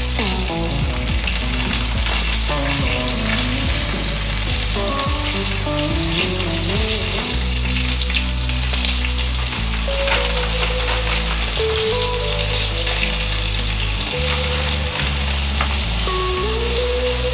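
Sabah fish pan-frying in hot oil, with a steady sizzle.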